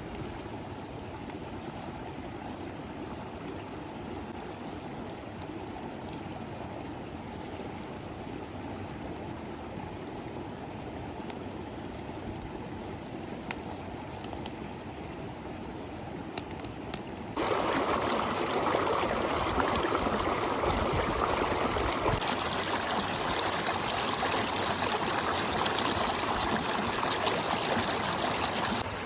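River water flowing steadily over stones, with a few faint clicks in the middle. About two-thirds of the way through, the water sound jumps abruptly louder and brighter and stays that way.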